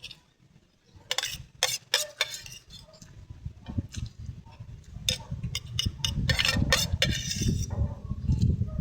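Cutlery clinking and scraping against a plate and dishes during a meal: a few sharp clinks about a second in, then more clinks over a dense, low rumbling noise from about halfway.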